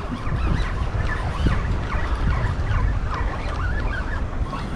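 Wind buffeting the microphone over a steady boat rumble, with many short, irregular high squeaky chirps throughout.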